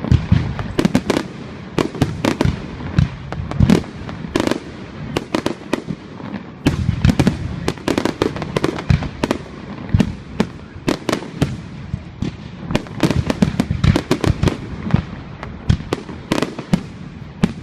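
Fireworks display: a rapid, continuous barrage of aerial shell bursts and crackling reports, several bangs a second, with a low rumble of echoes between them.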